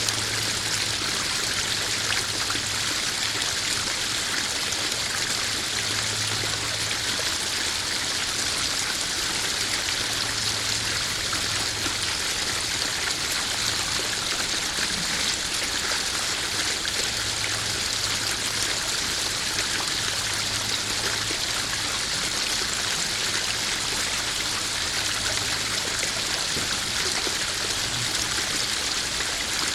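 Small garden waterfall splashing steadily into a koi pond, an even, unbroken rush of running water.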